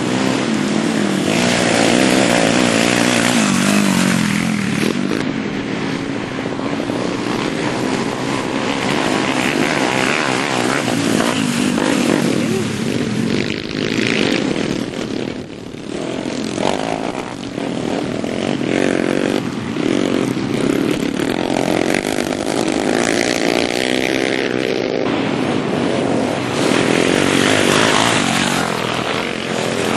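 Small pit bike engines running hard, the engine note rising and falling over and over as the throttle is opened and closed, with a few brief dips.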